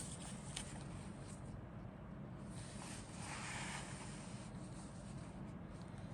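Faint rubbing and rustling from plastic model-kit parts and packaging being handled, with a light click shortly after the start, over a steady low hum.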